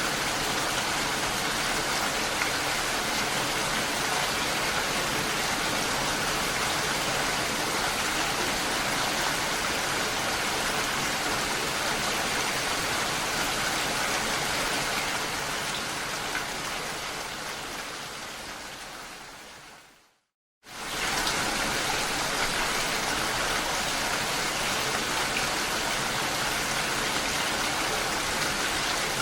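Steady, even rain that fades out over several seconds, stops for about half a second about two-thirds of the way in, and then comes back suddenly at full strength.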